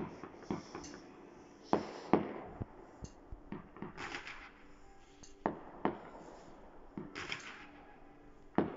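Distant fireworks going off: about eight scattered sharp bangs from rockets and firecrackers, with short stretches of hissing crackle around the middle and again later on.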